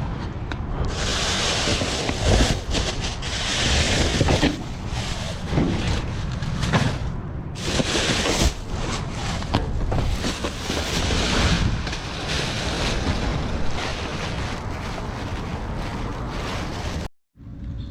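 Loud rustling and knocking with wind buffeting the microphone, cutting off suddenly near the end.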